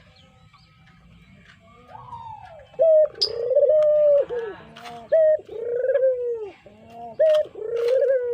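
Brown puter dove (a domestic collared dove) cooing: after a quiet start, a run of loud, repeated coos begins about two seconds in, each a short higher note followed by a longer falling one.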